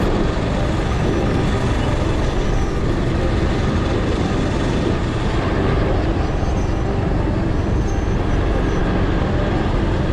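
Steady wind rush and road noise of a motorbike being ridden along a road, with the engine running underneath.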